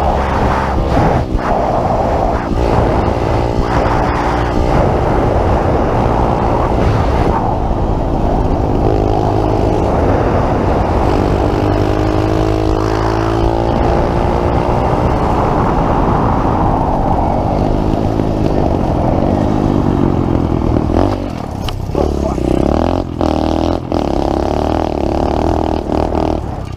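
Pit bike engine running under riding load, its pitch repeatedly climbing as it revs out and then dropping back, several times over.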